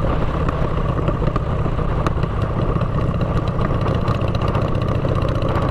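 Motorcycle running steadily through aftermarket exhaust pipes, a loud, even, low exhaust rumble with no revving.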